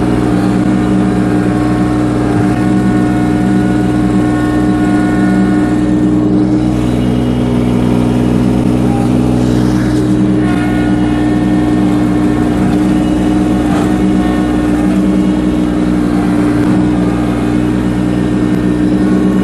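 Kubota LX2610 compact tractor's three-cylinder diesel engine running steadily at a constant speed.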